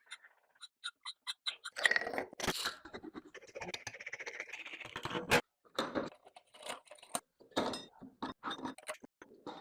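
Hand-tool work on rusted metal: light ticks, then a few seconds of crunchy scraping, followed by a string of sharp clicks and knocks with shorter scrapes.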